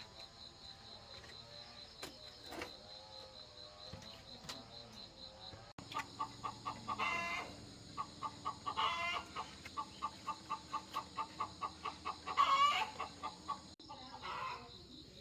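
Chickens clucking in a quick run of short clucks, with three louder, longer calls among them.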